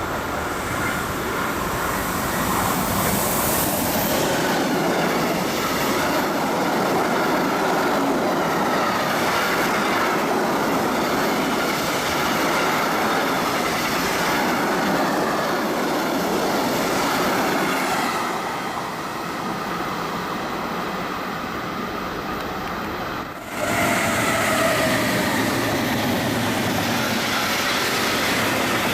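Electric-hauled freight trains passing close by: steady rolling noise of wagon wheels on the rails with clatter and some wheel squeal. About 23 seconds in the sound cuts abruptly to a second freight train passing.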